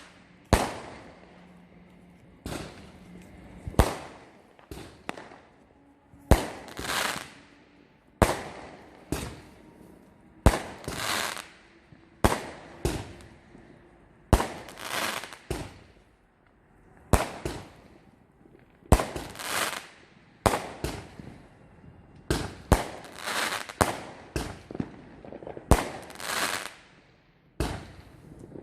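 Fireworks going off: a string of sharp bangs, one every second or two, many followed by a second or so of fizzing hiss, coming closer together near the end.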